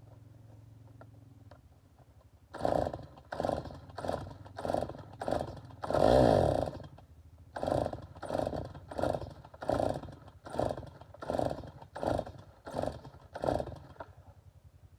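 Stihl MS 290 two-stroke chainsaw being pull-started over and over: about fifteen quick pulls of the recoil starter cord, with one louder, longer burst about six seconds in, and the saw does not keep running. The owner suspects it is flooded.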